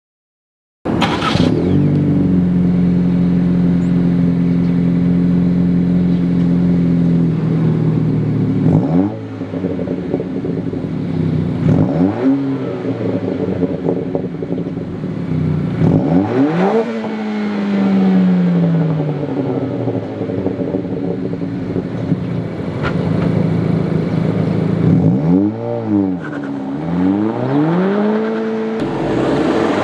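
2023 Acura Integra's engine, breathing through a Thermal R&D 3-inch stainless straight-through exhaust with Helmholtz-chamber mufflers, starts about a second in and idles steadily. It is then revved a few times with slower rises and falls, and blipped quickly several times near the end.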